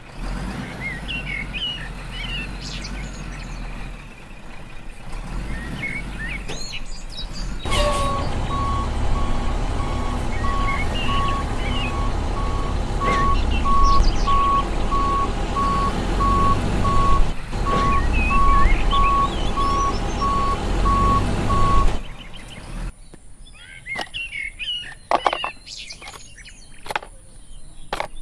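A truck engine running, with birds chirping. From about eight seconds in, a reversing alarm beeps steadily, about once a second, over the engine. Near the end the engine and beeping stop, leaving birdsong and a few sharp clicks.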